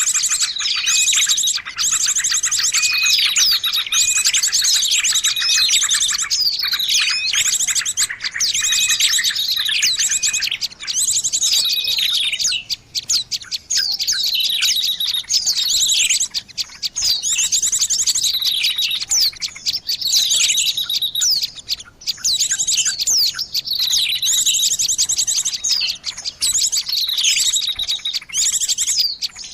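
Dense, continuous chattering of many small birds: fast trills and repeated falling chirps overlapping throughout, a bird-lure call track meant to draw in birds.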